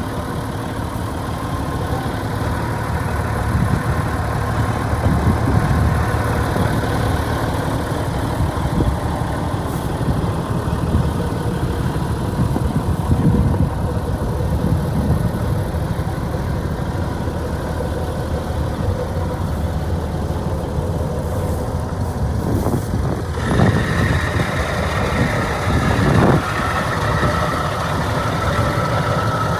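Diesel engine of a 1987 Ford L9000 truck tractor idling steadily, with a few brief louder swells. A higher steady whine joins about two-thirds of the way through.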